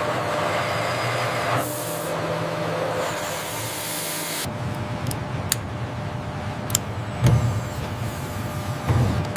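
Factory machinery running: a steady hiss with a faint held tone, which changes about halfway through to a lower rumble broken by a few sharp knocks.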